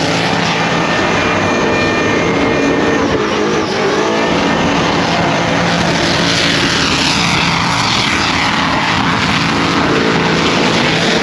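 Burnout car's engine held at high, steady revs, loud and continuous.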